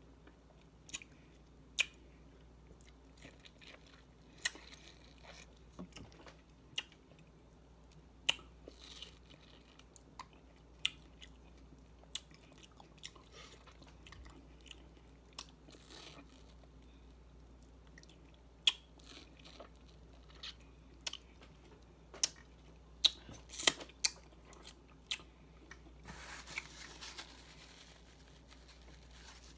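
A person chewing juicy fresh mango, with irregular wet mouth clicks and smacks, and a short soft hissing patch about 26 seconds in.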